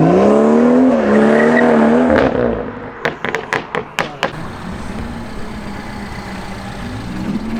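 A car engine revs up and holds a high, wavering note for about two seconds, then drops away. About a second later comes a quick series of about six sharp pops, then a lower steady running sound, with another engine beginning to rev near the end.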